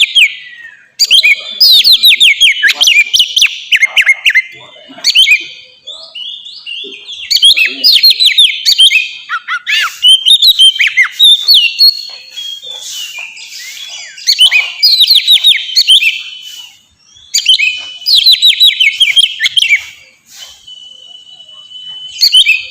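Oriental magpie-robin (kacer) singing loudly in full, open song ("ngeplong"): repeated phrases of rapid, sharply falling whistled notes with short pauses between them, and one steady held whistle near the end.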